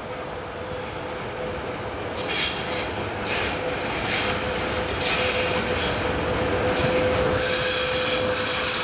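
VL80S electric locomotive hauling a freight train as it approaches, getting louder, with a steady hum. From about two seconds in, the wheels squeal in high, repeated bursts.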